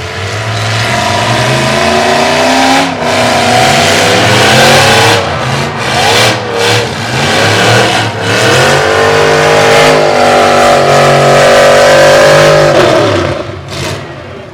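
Demolition-derby truck engine revving hard. The pitch climbs and drops several times, then holds high for about five seconds before falling away near the end.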